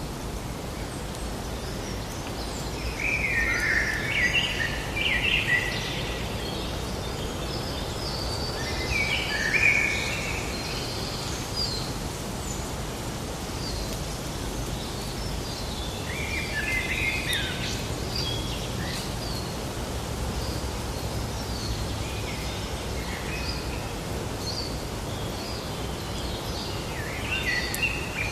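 Forest ambience: songbirds singing in short chirping phrases a few seconds apart, over a steady low background rush.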